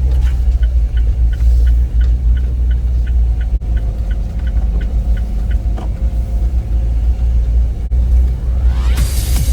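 Daihatsu Hijet kei truck running, a steady deep rumble, with a light regular ticking about twice a second. Electronic music comes in near the end.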